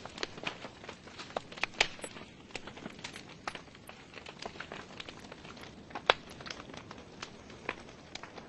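Wood fire burning in a fireplace: logs crackling with irregular sharp pops and snaps over a soft hiss, one louder pop about six seconds in.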